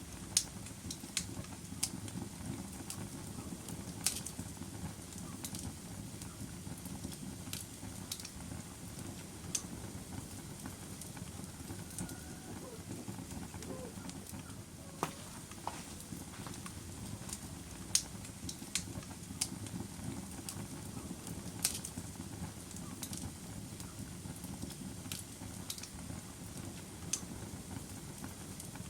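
Log fire crackling in a fireplace: sharp, irregular pops and snaps, one every second or two, over a steady low rumble of burning.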